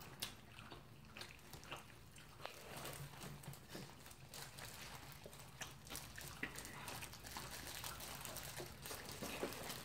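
Faint eating sounds of two people biting and chewing fried chicken: scattered small clicks, crunches and wet mouth sounds, with the crinkle of disposable plastic gloves.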